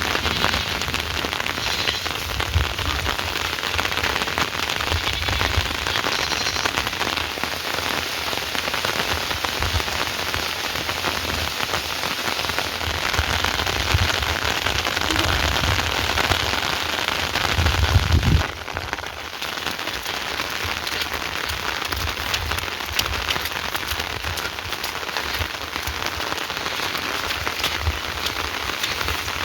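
Heavy rain falling steadily. A brief low rumble swells and breaks off suddenly about eighteen seconds in.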